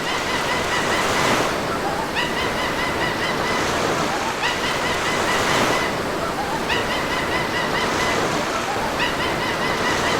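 Sea surf washing in and ebbing in a steady wash, with a string of short bird calls coming every couple of seconds.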